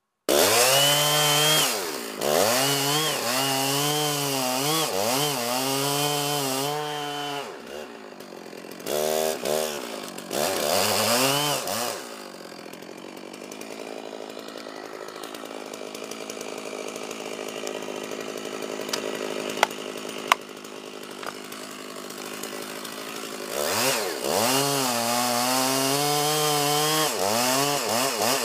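Chainsaw cutting wood, its engine pitch dipping and rising again and again under load. It runs in three spells: the first seven seconds or so, briefly around ten seconds in, and the last four or five seconds. In between is a quieter steady stretch with a couple of sharp clicks.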